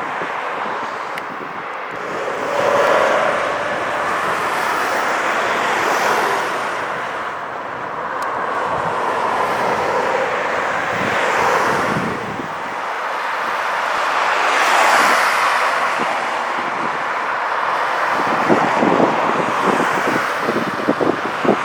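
Wind blowing across the camcorder microphone, swelling and fading in gusts, with rough buffeting crackle near the end.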